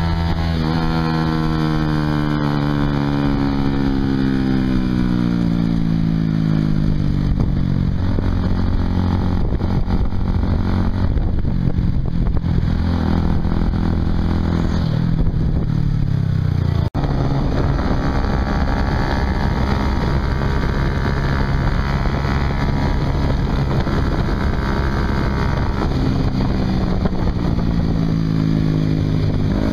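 Honda CBR150R single-cylinder engine running through an aftermarket Yoshimura exhaust while riding. Its note falls steadily over the first few seconds as the bike slows, then sits under rushing wind and road noise. After a brief dropout about halfway through, it climbs in pitch again near the end as the bike accelerates.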